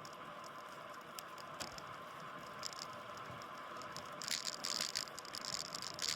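Bicycle riding on a road, with steady tyre and wind hiss and the bike-mounted phone and bike rattling over bumps, in scattered clicks and then a burst of rattling about four seconds in and again near the end.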